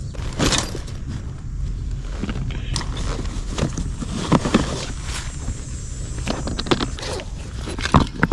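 Fishing gear being handled: irregular clicks, knocks and scrapes over a steady low rumble.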